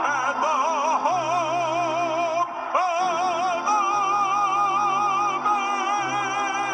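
Male soloist singing the U.S. national anthem in an operatic style, holding long notes with wide vibrato, over sustained organ chords. The voice breaks off briefly near the middle and then takes up a long, steady held note.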